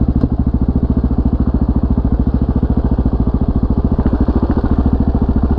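Motorcycle engine idling steadily, a rapid even low pulse.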